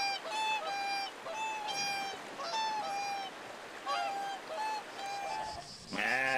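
Swan honking: a run of short nasal calls, two or three a second, over a steady background hiss. Near the end a louder, drawn-out mouflon bleat cuts in.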